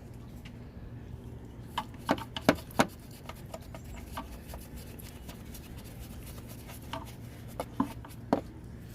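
Handling noises during engine-bay detailing: a few sharp clicks and knocks in two clusters, about two seconds in and again near the end, over a steady low hum.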